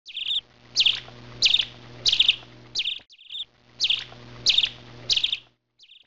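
Small songbird chirping: a run of about five short, sharp chirps that repeats almost exactly after about three seconds, over a faint low hum.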